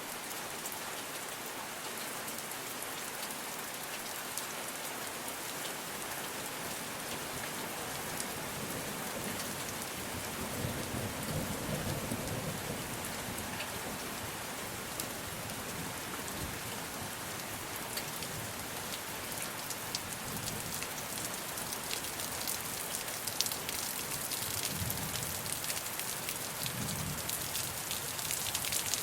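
Steady rain falling on rainforest foliage, with scattered close drop ticks. A low rumble of distant thunder comes in about ten seconds in, and again briefly near the end.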